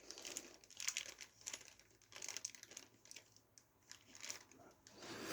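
Faint, irregular rustling and crinkling with light clicks, as PC parts and plastic are handled and fitted by hand.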